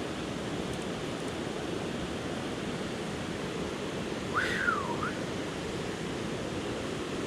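Steady rush of creek water. About four and a half seconds in, a brief whistle sweeps up and then down.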